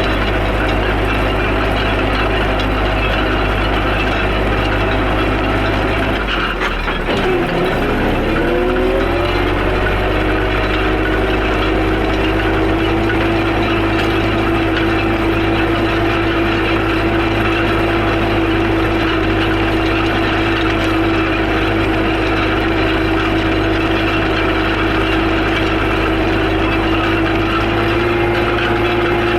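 Tractor engine running steadily while pulling land rollers. About seven seconds in the revs drop sharply and then climb back to a steady pitch.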